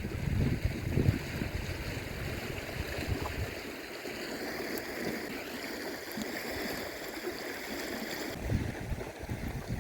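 River water flowing in a steady rush, with wind buffeting the microphone in the first few seconds and again near the end.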